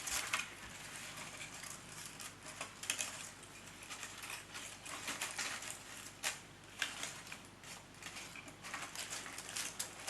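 Handmade flower stems and petals being pushed into a bouquet, giving irregular rustling and crackling with short sharp clicks.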